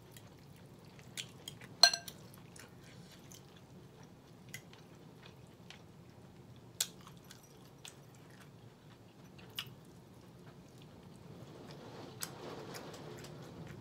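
Close-up mouth sounds of chewing and biting smoked turkey wing and cabbage, with scattered sharp clicks; about two seconds in, a fork clinks against the glass bowl with a short ring, the loudest sound. Near the end a steady low background noise swells.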